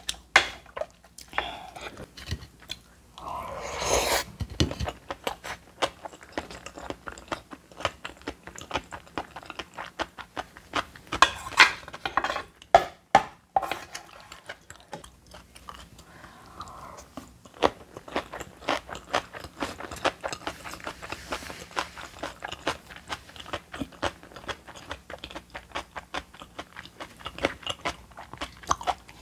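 Close-miked crunchy chewing of bibimbap made with seasoned aged cucumber (nogak), a dense run of small crisp crunches. There are a few louder noisy stretches, about four seconds in and again near the middle.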